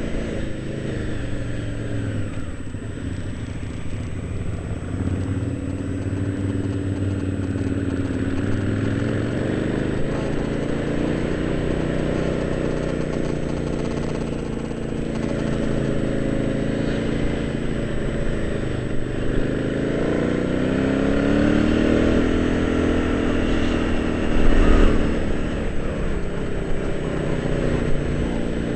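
Motorcycle engine running under load, its pitch rising and falling with the throttle through the bends, with wind noise on a helmet-mounted camera. Near the end there is a short, loud thump.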